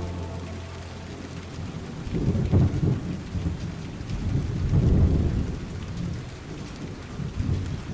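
Steady rain with rolling thunder, two low rumbles swelling up and fading, the second a little after the middle.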